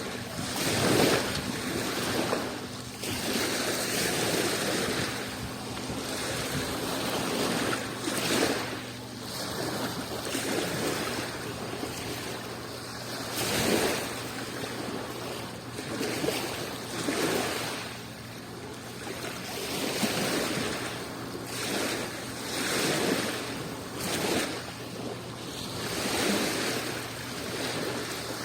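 Adriatic Sea waves washing onto the shore, the surf swelling and falling back every few seconds in an irregular rhythm.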